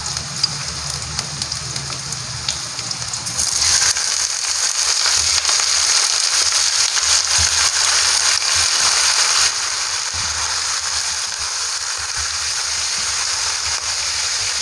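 Ginger slices sizzling and crackling in hot sesame oil in a wok. About four seconds in, raw chicken pieces go into the oil and the sizzling gets louder, easing a little after about nine seconds.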